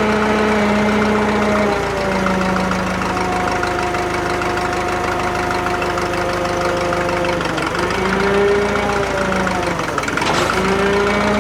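Drott 85RM2 crane's engine running steadily while the crane is operated, its pitch sagging and recovering twice in the second half.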